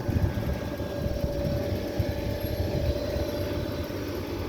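Outdoor central air-conditioner condensing units running: a steady fan rush and compressor hum, with a steady tone that fades out about three and a half seconds in.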